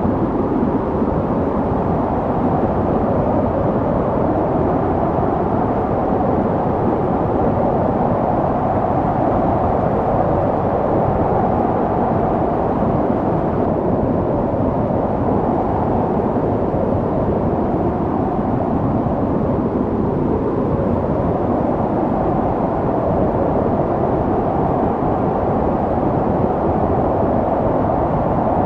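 Snowstorm wind blowing steadily: a deep rushing noise whose pitch slowly wavers up and down.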